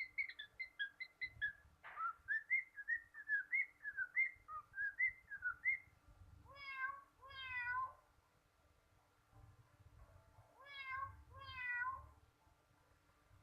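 A bird chirping a quick run of short whistled notes, followed by two pairs of meow-like calls, each call a falling note.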